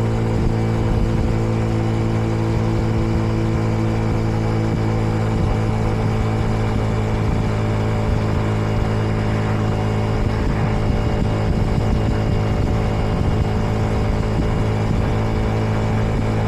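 Kreidler Dice CR 125's single-cylinder four-stroke engine running at a steady speed on the move, the bike still in its running-in phase and kept below about 70 km/h.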